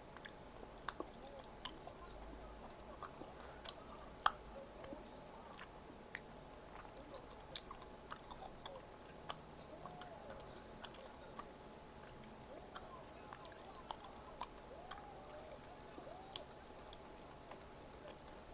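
A person chewing food close to the microphone, with scattered short, sharp mouth clicks and small crunches.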